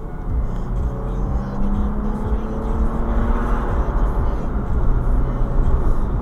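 Car engine and road noise heard from inside the cabin, the engine revving up hard to overtake a slower car. Its pitch rises for about two seconds, then levels off.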